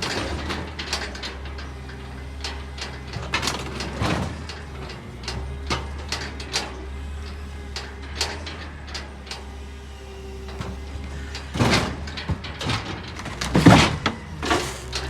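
Garbage truck engine running with a steady low hum, with repeated metal clanks and knocks as a refrigerator is handled for collection. Two louder bangs come near the end.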